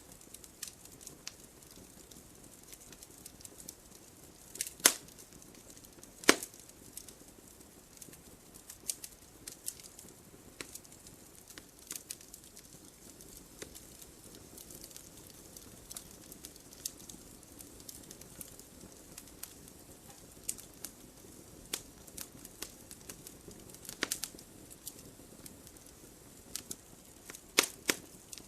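Wood fire crackling: scattered sharp pops and snaps over a soft steady hiss of burning, with a few louder pops about five and six seconds in, again around twenty-four seconds, and twice near the end.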